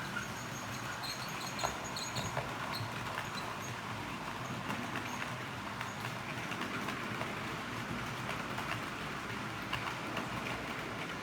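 HO-scale model train running along the layout's track: a steady rolling noise with many small clicks of wheels over rail joints, and faint high squeaks in the first few seconds.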